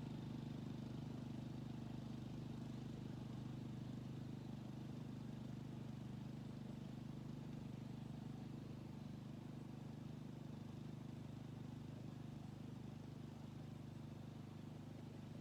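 Yanmar walk-behind tiller's diesel engine running steadily at idle, a low even drone that eases off slightly near the end.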